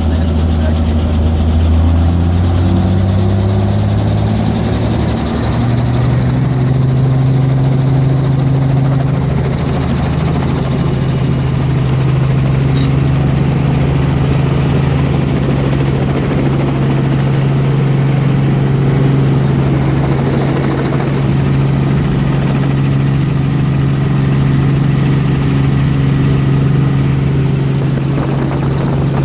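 Helicopter engine and rotor running and speeding up, the pitch rising over the first five seconds or so, then holding steady at speed.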